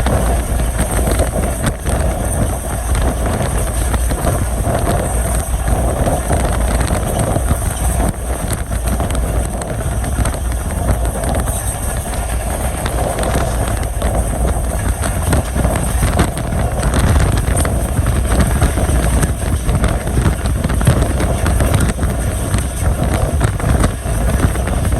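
Passenger train running along the track: a steady rumble of wheels on rails with faint rail clicks and rushing air.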